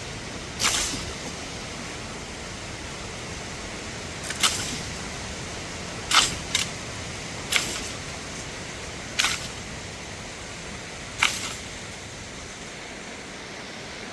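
Steady rush of a mountain waterfall, with seven sharp clicks or knocks at irregular intervals over it.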